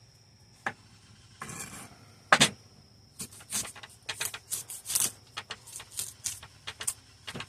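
Knife cutting on a cutting board: irregular short knocks and scrapes, a few a second, growing denser from about three seconds in, with one louder knock before that. The knife is blunt.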